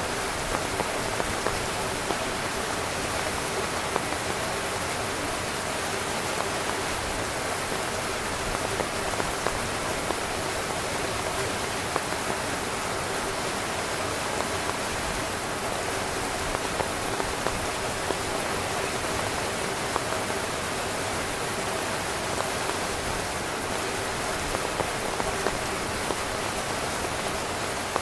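Heavy rain falling on a tent: a steady dense hiss with scattered individual drops ticking out of it.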